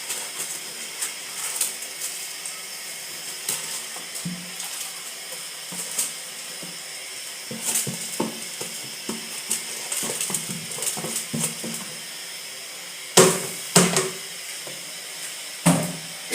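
Cooking pot and metal utensils clinking and scraping over a steady hiss from the stove, with three loud metal knocks near the end.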